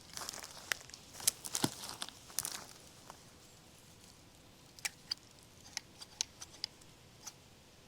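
Herbs being picked by hand: irregular crisp snaps of stems and crinkling of leaves. The snaps cluster in the first three seconds, then come singly and sparser later.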